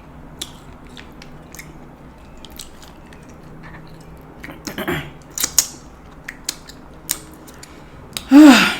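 Close-miked chewing and biting of steamed king crab, with scattered small clicks and crackles. Near the end comes a short vocal sound falling in pitch, the loudest thing here.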